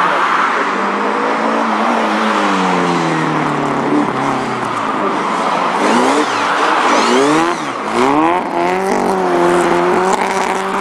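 Classic Mini's A-series four-cylinder engine revving up and dropping back again and again as the car accelerates, brakes and turns around the cones. There are steep rises in pitch about six to eight seconds in.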